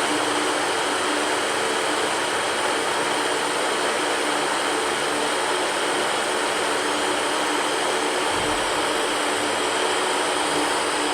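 Electric fan running steadily: an even rush of air with a faint steady hum underneath.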